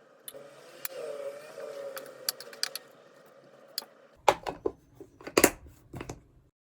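Scattered sharp clicks and taps in a small room, growing denser and heavier from about four seconds in.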